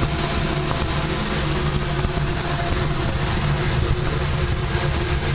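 Steady, loud drone of a large passenger ferry's machinery: a low hum carrying a few constant tones, with an even high hiss over it, unchanging throughout.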